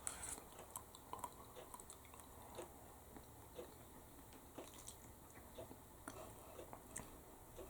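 Faint chewing of a mouthful of noodles, with small mouth clicks scattered through the near-quiet.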